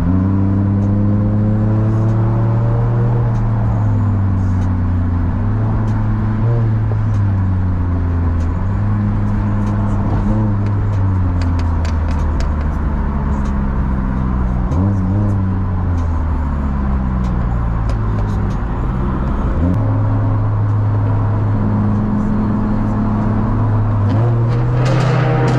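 Car engine and exhaust heard from inside the cabin, accelerating hard through the gears. The pitch climbs steadily and then drops sharply at each shift, several times over, and the sound gets a little louder near the end as the car enters a tunnel.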